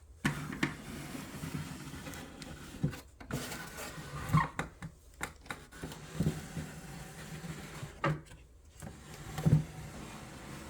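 A wooden dollhouse being handled and turned around on a tabletop: irregular knocks, bumps and short scrapes of wood, the loudest about 4, 8 and 9.5 seconds in.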